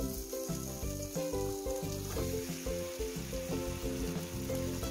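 Spiced masala paste frying in mustard oil in a kadai, sizzling steadily as yogurt-marinated chicken is added. Soft background music with short held notes plays alongside.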